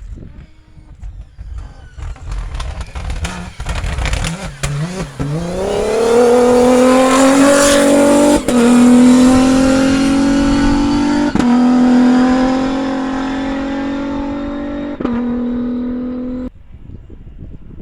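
Rally-raid race car at full throttle: its engine climbs in pitch and holds high and loud, with three quick gear changes, then the sound cuts off suddenly near the end.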